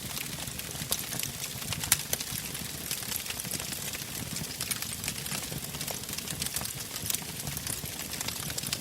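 Wood fire burning in a fireplace, crackling: frequent sharp pops and snaps over a steady low rumble of flames, with one louder pop about two seconds in.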